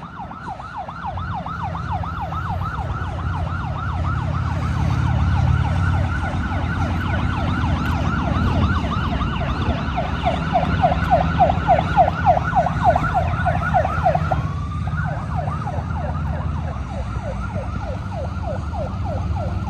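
Vehicle sirens sounding a rapid yelp, the pitch sweeping up and down several times a second, with a brief change in the pattern about three-quarters of the way through. A low rumble of engines and traffic runs underneath.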